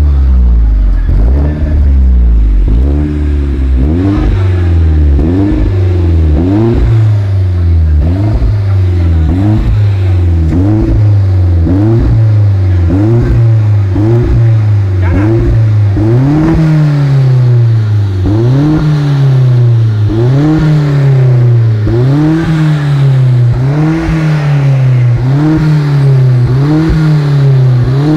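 Hyundai Rohens engine revved in quick, repeated throttle blips through an aftermarket RES Racing performance exhaust. The pitch rises and falls about once a second, over and over, and the blips climb a little higher and come a little slower in the second half.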